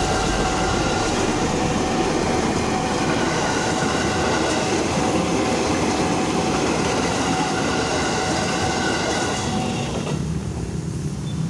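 KRL Commuterline electric multiple-unit train passing over a level crossing: a loud, steady rush of wheels on rail with a few steady tones above it. The sound drops away sharply about ten seconds in as the train clears the crossing.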